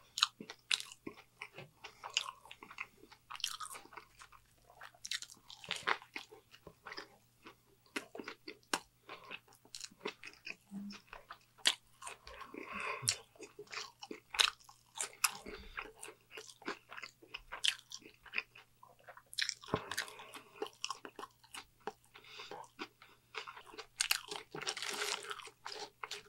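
Close-miked chewing and biting of a Burger King Whopper and french fries: many short, irregular mouth clicks and crunches.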